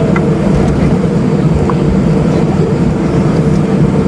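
Steady drone heard inside an Airbus A320 cabin: engine and air-system noise, an even rumble with a constant low hum.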